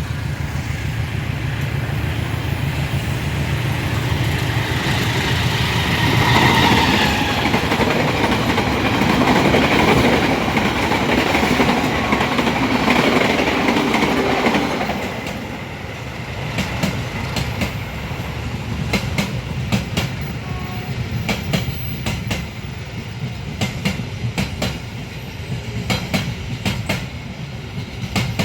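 A train running through at speed. A steady rumble grows loudest through the middle, then eases, and the wheels click over rail joints in a steady clickety-clack as the carriages go by.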